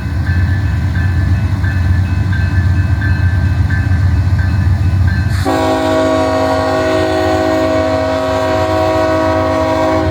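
BNSF diesel locomotive moving off with its engine rumbling and its bell ringing about twice a second. About halfway through, its multi-chime horn sounds one long blast that stops just before the end.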